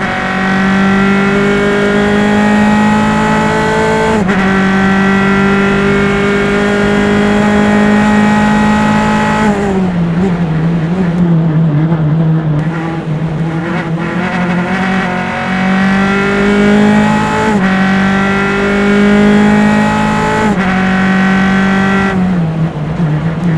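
Single-seater race car engine heard onboard through engine-mounted microphones, running hard at high revs with gear changes stepping the note, about 4 s in and again later. About 10 s in the note drops and turns rough and uneven as the driver lifts for a corner, then picks up again; it lifts once more near the end.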